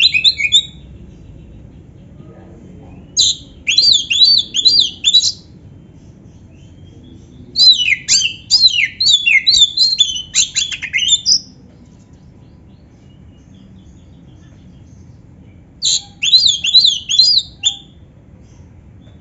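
An oriental magpie-robin (kacer) singing three short bouts of quick, sweeping whistled notes, with pauses between them, over a faint low hum.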